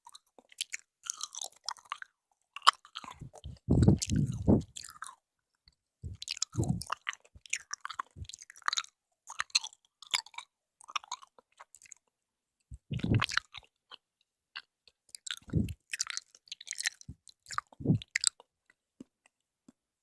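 Close-miked chewing and biting of jelly candy: irregular sticky, wet mouth clicks and squelches, with a few heavier low thumps against the microphone.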